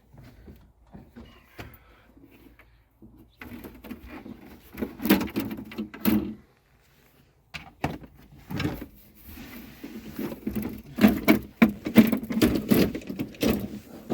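Plastic dash trim panel being pried and worked loose by hand: irregular clicks, knocks and rattles, sparse at first, then busier from about three seconds in and loudest near the end.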